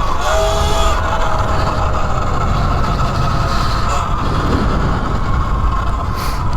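E Ride Pro SS 3.0 electric dirt bike's motor whining under way, its pitch rising in the first second and then holding steady, easing slightly near the end, over heavy wind rumble on the microphone from riding.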